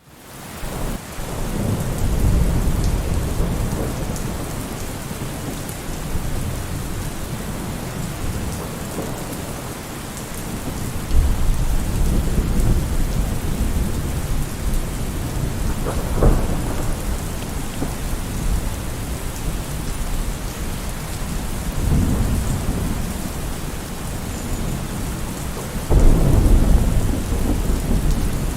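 Thunderstorm: steady heavy rain with rolling thunder rumbling in several times, the loudest a sharp crack and rumble near the end.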